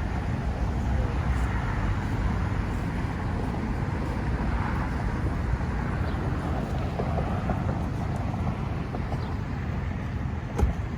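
A car being driven, giving a steady rumble of road and engine noise, with a short knock near the end.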